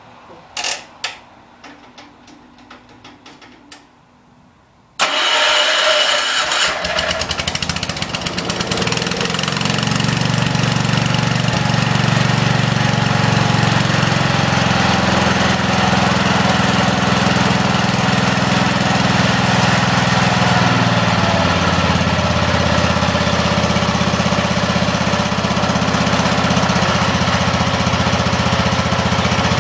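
Wheel Horse C-100 garden tractor's engine being started: a few clicks, then about five seconds in it cranks briefly and catches suddenly, and runs steadily from then on.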